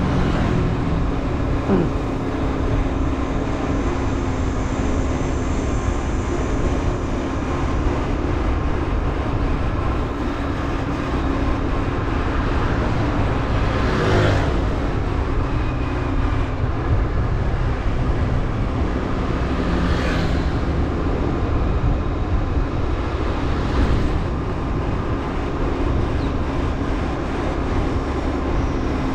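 Motorbike engine running steadily while riding, with wind and road noise, and a few short whooshes in the second half.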